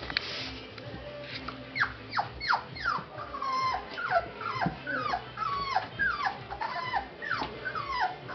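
Month-old puppies whining and squealing: a quick run of short, high cries that each drop in pitch, starting about a second and a half in and going on repeatedly.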